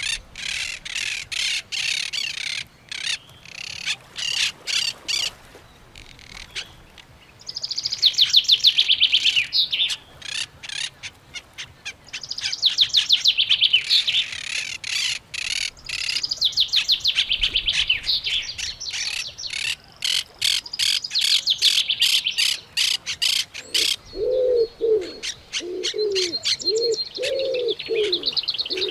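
A chorus of birds chirping and trilling, with rapid, high calls overlapping throughout. Near the end, a run of low, repeated cooing calls joins in, like a dove's.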